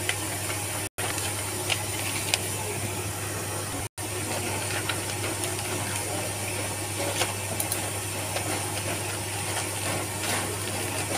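Steady hiss of rain with a low steady hum under it, and scattered light rustles and clicks of paper wrappers being handled as rice packets are wrapped. The sound drops out briefly twice, about one and four seconds in.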